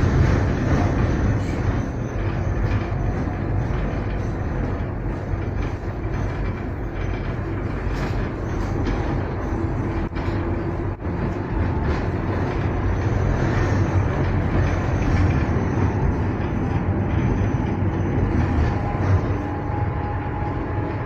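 Electric tram running along its track: a steady, loud rumble with a faint motor whine.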